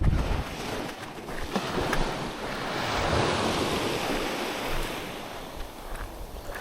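Waves breaking on a sandy beach: a wash of surf swells up about two seconds in and fades away over the next few seconds, with wind buffeting the microphone.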